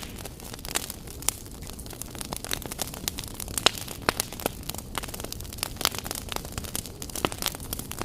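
Wood fire crackling in a fireplace: irregular sharp pops and snaps, a few loud, over a steady hiss.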